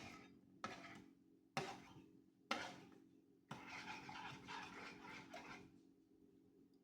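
A spoon scraping against a pan while a sauce is stirred: four short strokes about a second apart, then a longer scrape, over a faint steady hum.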